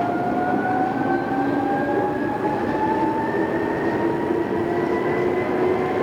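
Odakyu 2600 series electric train heard from inside the car while accelerating: the traction motor and gear whine rises steadily in pitch over a constant running rumble as the train gathers speed.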